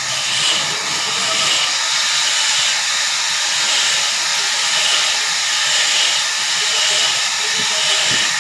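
Large sawmill saw cutting through a red walnut log: a steady, loud hissing rush of blade in wood, with a faint pulsing about once a second.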